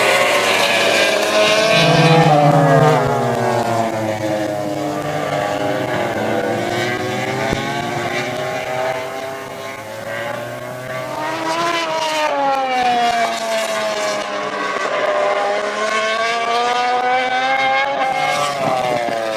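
2011 MotoGP 800cc four-cylinder racing motorcycles passing trackside at racing speed. The engine note climbs and drops again and again as the bikes accelerate, shift and brake through the corners, with more than one bike heard in turn.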